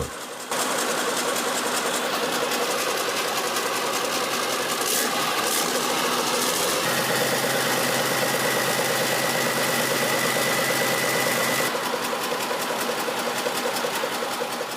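MWM TBD234 V12 four-stroke diesel engine running steadily, with a thin high whine joining in about seven seconds in and stopping near twelve seconds.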